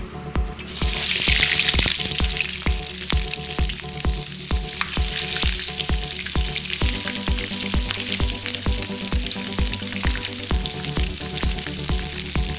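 Breaded shrimp frying in hot oil in a pan: the sizzle swells suddenly about a second in, then goes on as a steady crackling hiss. Background music with a steady beat plays underneath.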